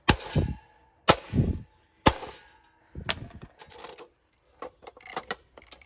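A Hoover E1002 desk fan being smashed: three hard blows about a second apart, each with a short crash of breaking parts. Then a weaker hit and some light clattering near the end.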